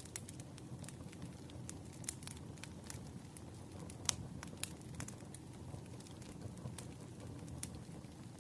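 Firewood burning: irregular sharp crackles and pops over a steady low rumble, with the loudest pop about four seconds in.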